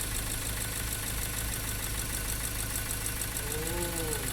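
Ford Ranger 2.2 diesel engine idling with a fast, even ticking knock. The engine is misfiring and noisy, which the mechanic puts down to the broken-off tip of the No. 3 glow plug having fallen into the cylinder.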